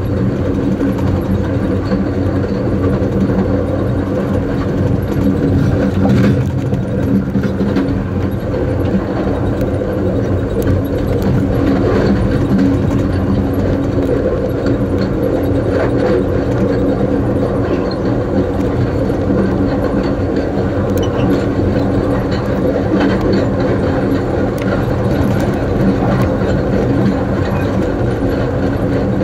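Amtrak Coast Starlight passenger train rolling along the track: a steady rumble of wheels on rails under a constant low hum, with a few faint clicks and rattles.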